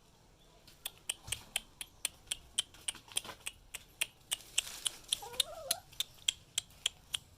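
Ducklings peeping: a quick run of short, high peeps, about three to four a second, with a lower wavering call about two-thirds of the way through.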